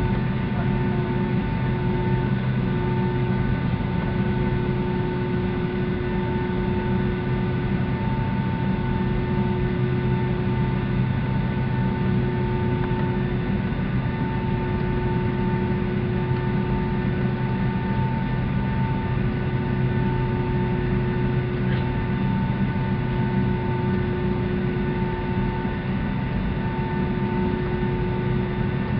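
Steady drone of a Boeing 757-200's passenger cabin on the ground before takeoff: a low hum with a few steady tones over a constant rush of air and machinery, one higher tone coming and going every few seconds.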